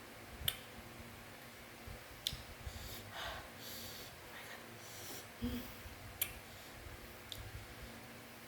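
A few sharp, scattered clicks and crunches with soft breathing noises between them, as of someone eating a crunchy spicy macaroni snack.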